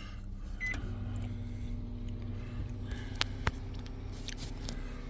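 A microwave oven's keypad beeps once, then the oven starts running with a steady hum. Two sharp clicks come a little after three seconds in.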